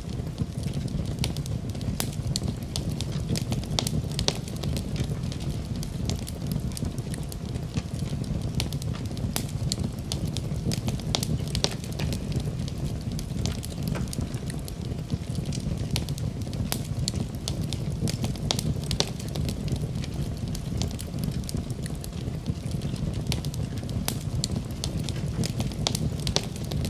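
Wood fire in a fireplace burning steadily: a low rumble of the flames with frequent sharp crackles and pops of burning wood.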